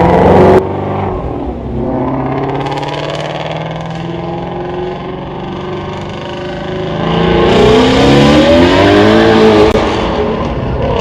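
Car engine running. The loudness drops suddenly about half a second in, leaving a steadier, quieter drone. About seven seconds in the revs climb with rising pitch, stay loud for a few seconds, then ease off near the end.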